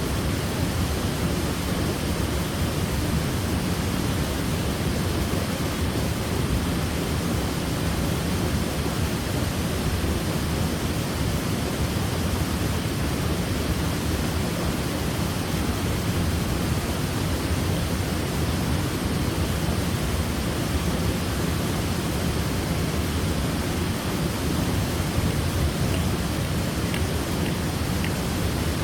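Waterfall: water falling and splashing in a steady, unbroken rush, deepest and strongest in its low rumble.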